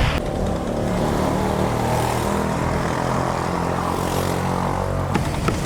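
A motor running with a steady hum. It stops about five seconds in, and a few sharp taps follow.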